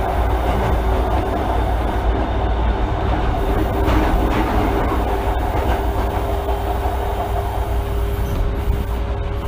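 Osaka Municipal Subway 66 series car running at a steady pace, with a steady rumble, a held hum and now and then the click of wheels over rail joints.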